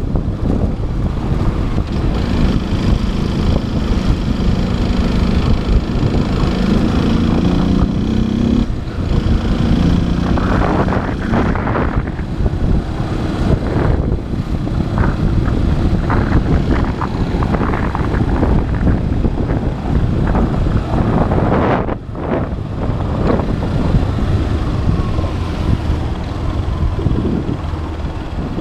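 Motorcycle engine running under way, rising in pitch in steps over the first several seconds as it accelerates, with wind noise on the microphone.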